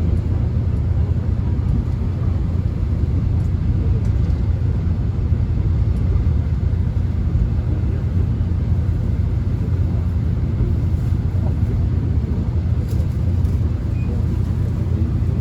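Korean subway train running, heard from inside the passenger car: a steady low rumble with an even rushing noise over it.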